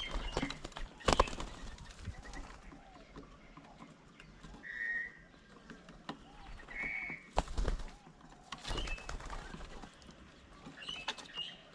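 Birds at a feeding table: scattered calls and chirps, with two short clear notes in the middle and a few sharp knocks and thumps, loudest near the start and in the second half.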